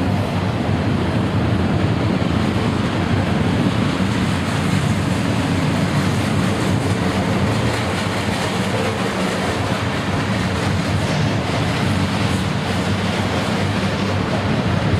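A train passing at speed, its steel wheels running steadily on the rails.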